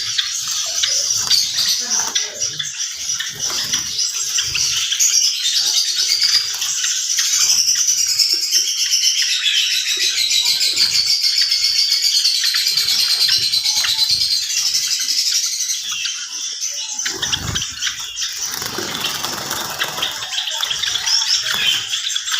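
Java sparrows chirping and twittering continuously, a dense high chatter with many birds calling at once, with scattered soft flutters and knocks from wings and perches.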